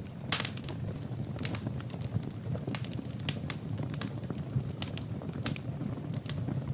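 Fire burning in a fireplace: irregular crackles and sharp pops, several a second, over a steady low rumble of the flames.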